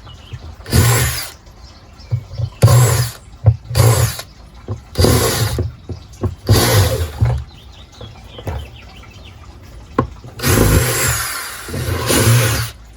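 Power drill running in short bursts, five brief pulses and then a longer run near the end, as it bores a drainage hole through a plant pot.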